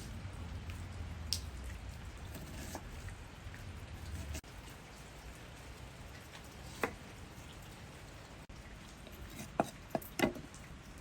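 Steady rain patter with a few sharp clicks and knocks, the loudest a quick cluster near the end.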